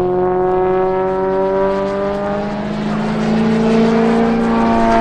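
Engines of a 300-horsepower propeller aircraft and its radio-controlled scale model running together in display flight. Two engine drones overlap, each slowly rising in pitch.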